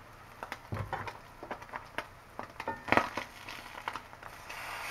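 Slices of SPAM sizzling in a skillet, with crackles and the clicks of a metal fork against the pan as the slices are turned over; the loudest clatter comes about three seconds in. The sizzle swells near the end as a slice is flipped onto its raw side.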